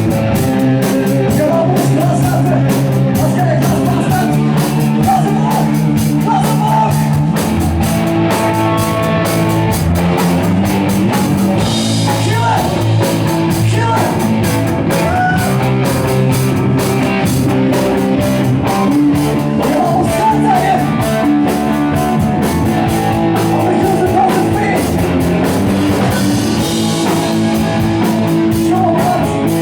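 Rock band playing live: guitar and drum kit, loud and steady, with singing at times.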